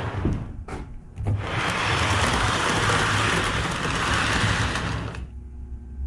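Model steam locomotive running on a layout: a steady rushing hiss over a low motor hum. The hiss drops out briefly about a second in and dies away near the end, leaving only the hum.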